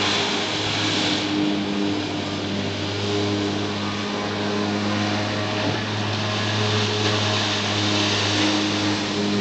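Jet ski engine running at a steady pitch, with a steady hiss over it.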